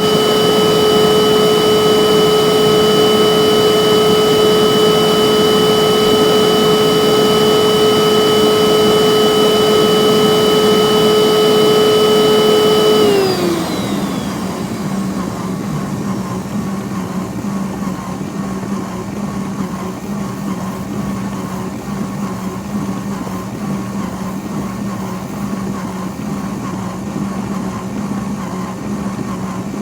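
Bissell vacuum cleaner motor running with a steady high whine. About thirteen seconds in it switches off and winds down quickly, and a quieter, lower steady hum carries on.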